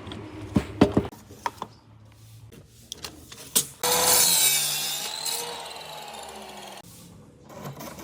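A few sharp knocks of wood being handled, then about three seconds of wood rubbing or scraping that fades away.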